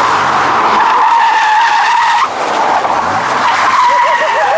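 Car tyres screeching loudly in a long, steady squeal as they spin and slide on the tarmac. The squeal drops away a little after two seconds, then comes back near the end.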